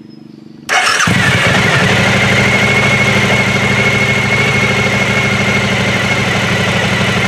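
Suzuki DL1000 V-Strom's 90-degree V-twin cranked on the electric starter and catching just under a second in, then idling steadily with a rumble through an aftermarket Holeshot Performance exhaust can.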